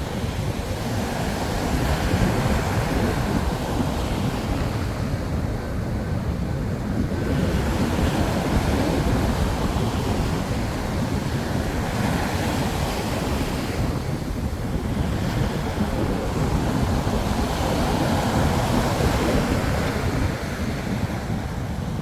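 Sea waves breaking and washing on the shore, the surf swelling and easing every several seconds, with a low rumble of wind on the microphone.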